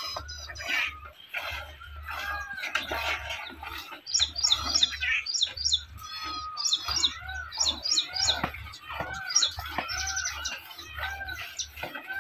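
Birds chirping and calling: quick runs of short, high chirps mixed with repeated lower arched calls.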